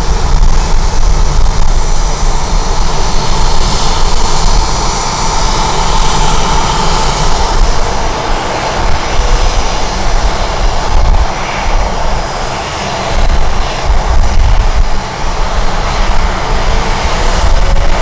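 Jet airliner's engines running, a steady roar with a high whine, under heavy gusting wind noise on the microphone. A whine rises faintly near the end.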